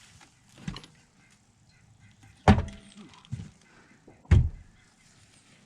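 Four sharp knocks and thuds of parts and tools being handled on a snowmobile engine, the loudest about two and a half seconds in and another strong one a little past four seconds.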